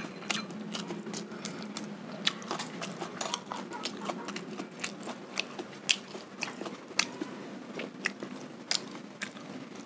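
Close-up chewing of sate kere, skewered oncom or tempe gembus in sauce: irregular wet mouth clicks and smacks, several a second.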